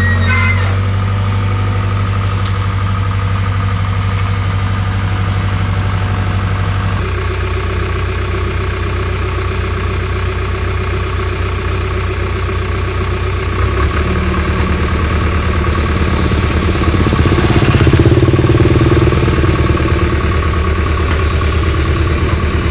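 Hitachi excavator's diesel engine running steadily. Its note shifts about a third of the way in, and it grows louder past halfway as the engine works harder.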